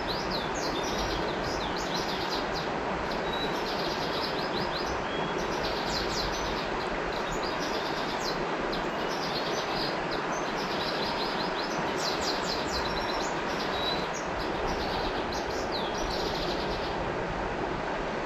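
Steady rush of flowing river water, with a songbird giving quick, repeated chirping phrases over it that stop near the end.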